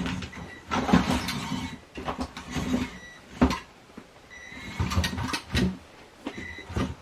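Small electric motor and plastic gearbox of a toy-grade 1/16 RC truck whirring in short bursts as it is driven back and forth, with sharp knocks of the plastic truck against obstacles in between.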